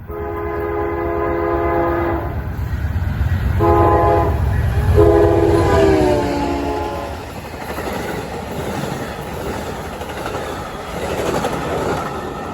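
Amtrak passenger locomotive sounding its multi-note horn: a long blast, a short one, then another long blast that drops in pitch as the engine passes. The loud rumble of the locomotive going by is followed by the steady clatter of the passenger cars rolling past.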